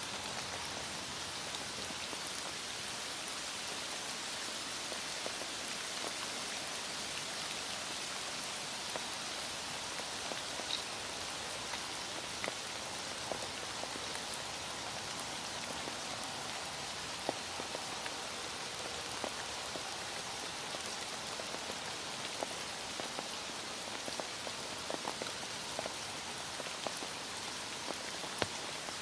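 Heavy rain falling steadily: a dense, even hiss with scattered single drops ticking through it.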